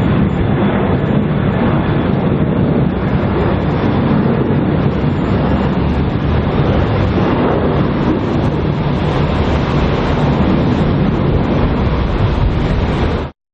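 Four-engine Boeing 747-400 jet engines running at takeoff power: a loud, steady, deep roar and rumble that cuts off suddenly near the end.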